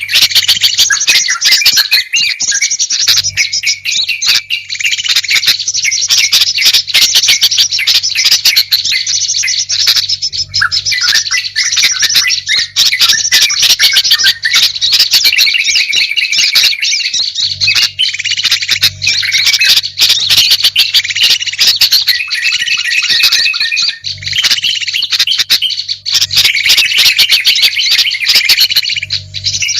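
Many small songbirds chirping and chattering at once, loud and without a break: a mixed bird-lure recording of the kind played to draw wild birds in.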